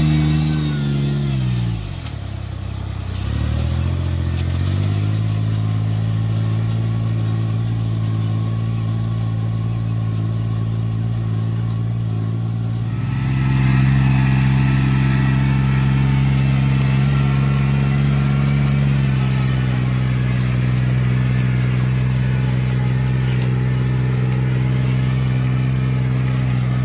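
Engine of farm field machinery running steadily. Its revs dip sharply about two seconds in and recover, then pick up and grow louder about halfway through.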